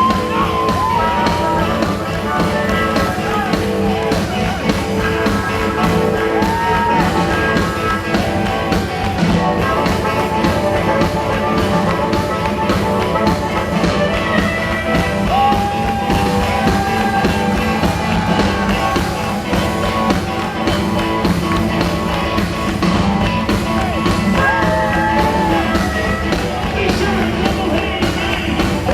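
Live rock-and-roll band playing, with some singing.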